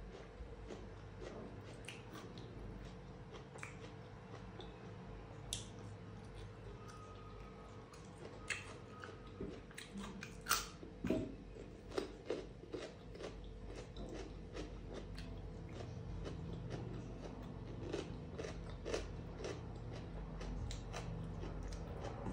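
Close-up eating sounds: biting and chewing with crisp crunches and wet mouth clicks, loudest about ten to thirteen seconds in.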